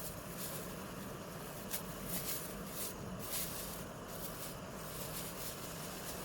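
Portable butane gas camping stove running under a pan with a steady hiss, with short scratchy bursts every second or so and one sharp click about two seconds in.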